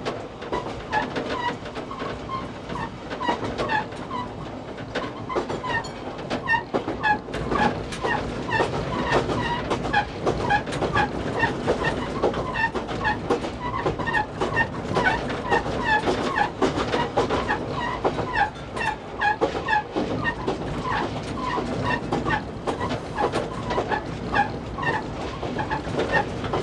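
Electric commuter train running along the track, heard from the driver's cab: steady running noise with the wheels clicking over rail joints, and many short high chirps repeating throughout.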